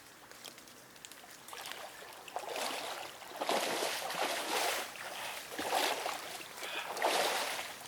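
Water sloshing and splashing in irregular swells, about one a second, as someone moves through cold water.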